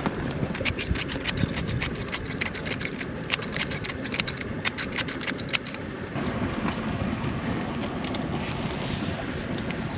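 Sharp crackling over the steady rush of a mountain stream for about the first six seconds; then the crackling stops and a fuller, steady rushing hiss takes over.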